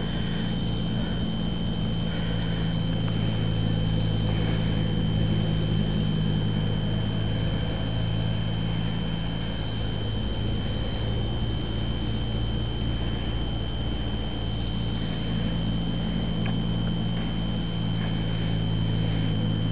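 Evening insects, likely crickets, chirping in a steady rhythm of about two chirps a second, over a continuous high whine and a steady low hum. No thunderclap is heard.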